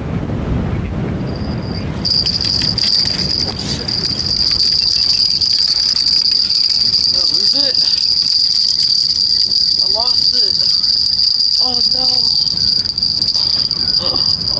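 Fishing reel's clicker or drag buzzing in a high, steady whine as a big fish pulls line off, with a few short cries in the second half.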